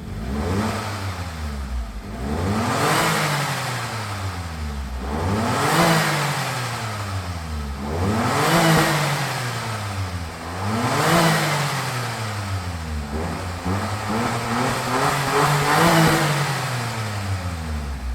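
Suzuki Super Carry kei truck's 660 cc three-cylinder engine being revved through an aftermarket exhaust. It is blipped repeatedly, about every three seconds, each rev rising and falling back toward idle.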